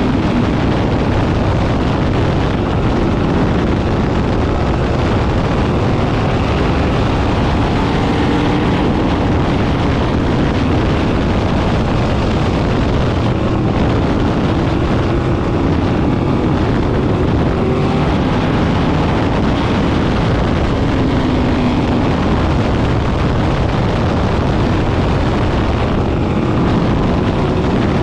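Sprint cars racing: a pack of engines running hard, their pitch rising and falling as the cars pass and work round the track, over constant engine noise.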